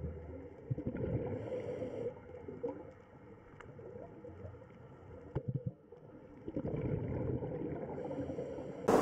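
Underwater ambience: a low, rumbling, gurgling water noise with a few scattered clicks and knocks, heard through an underwater microphone.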